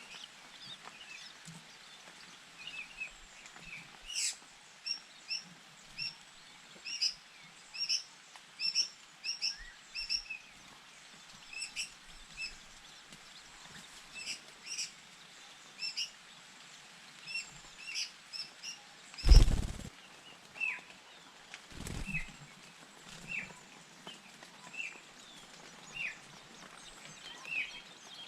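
Long-tailed shrikes (cendet) at their nest giving short, high chirps, repeated about once or twice a second. A loud thump about two-thirds of the way through, with a smaller one shortly after.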